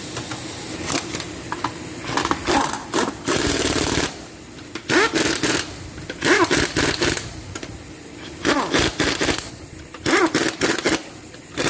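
A wrench working wheel-hub fasteners in repeated short bursts of rapid mechanical clatter, about seven bursts of under a second each with pauses between.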